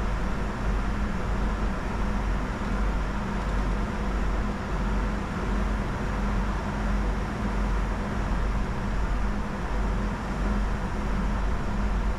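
Steady cockpit noise of a Bombardier Challenger 605 jet in flight: an even rushing of airflow with a low hum underneath.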